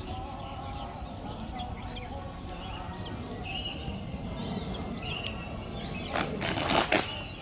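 Small birds chirping and twittering in many short, quick calls, with a brief loud rustling burst near the end.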